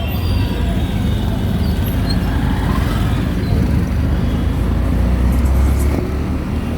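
Auto-rickshaw engine running while riding through street traffic, a steady low rumble with road and traffic noise around it.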